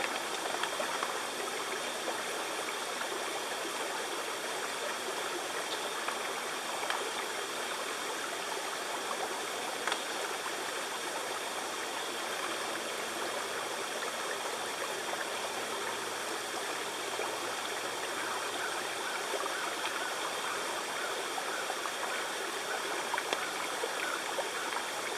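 A creek running steadily, an even continuous rush of flowing water.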